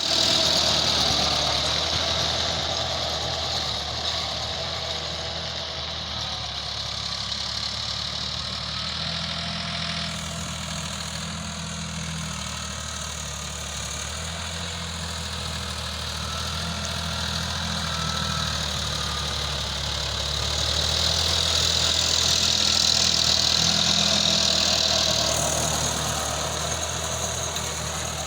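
Sonalika RX 50 tractor's diesel engine running steadily at low revs, with a high hiss alongside that shifts abruptly about ten seconds in and again near the end.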